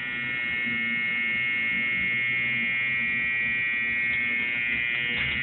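Steady electric whine and hum of car wash equipment-room machinery: several high tones held level over a low hum.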